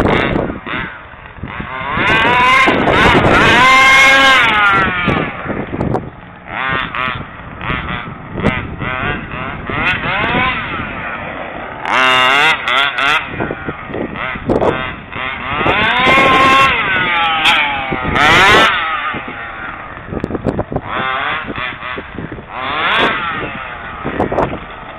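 FG stadium truck's 29cc two-stroke engine with a DDM expansion pipe, revving up and down in repeated bursts of a few seconds each as the truck is driven, with the pitch rising and falling and dropping back between bursts.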